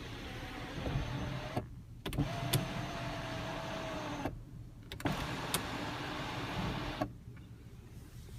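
Audi A7's one-touch power sunroof motor running three times with a steady whine, each run stopping abruptly with a click as the sunroof panel reaches its position.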